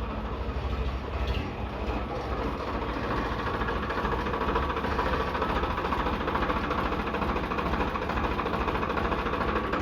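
Heavy diesel engine of a bulldozer or tractor running steadily with a fast, even chug.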